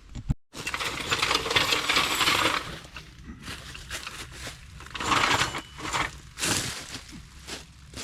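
Metal objects clinking and rattling, in one long bout followed by two shorter bursts.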